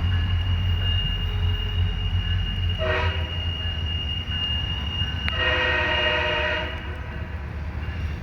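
Nathan K5H five-chime air horn on a MARC MPI MP36PH-3C locomotive sounding a short blast about three seconds in, then a longer blast of about a second and a half, blown for a private grade crossing.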